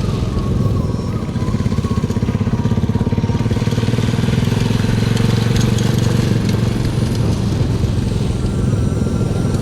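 Motorcycle engine running steadily under way, with an even low pulsing throughout.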